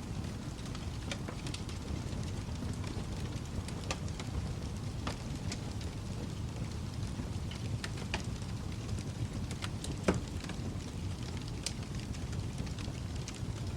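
Wood fire burning in a fireplace, a steady low rush of flames with scattered sharp crackles and pops, the loudest pop about ten seconds in.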